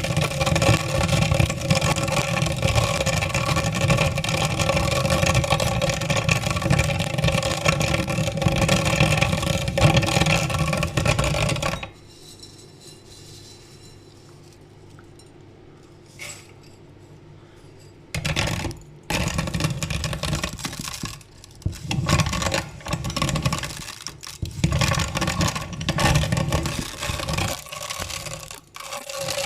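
Meat grinder motor running steadily while grinding macaroni. It stops about twelve seconds in, then runs again in short, uneven bursts from about six seconds later.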